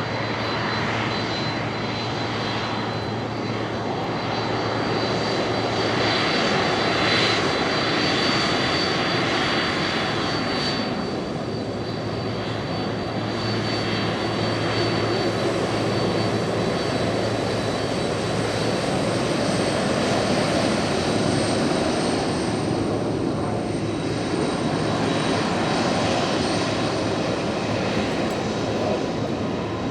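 Boeing 767-300ER jet engines running at taxi power: a steady rush of engine noise with a thin, high whine held throughout.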